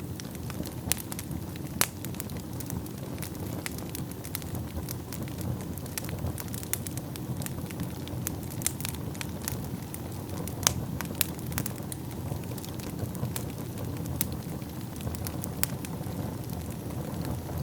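Wood fire burning in a fireplace: a steady low rumble of flames with frequent irregular sharp crackles and pops, a few louder snaps standing out.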